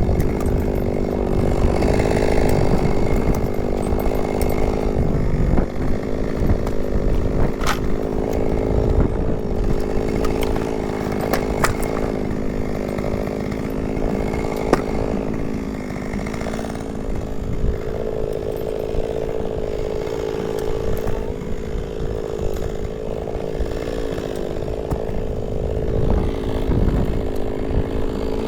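Chainsaw running steadily at high speed while cutting firewood logs; its engine note wavers a little as the chain works through the wood.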